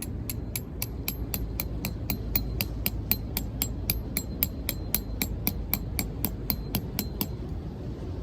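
A hammer striking metal in a fast, even series of about thirty blows, roughly four a second, each with a short metallic ring. The series stops about a second before the end, over a steady low rumble of surf and wind.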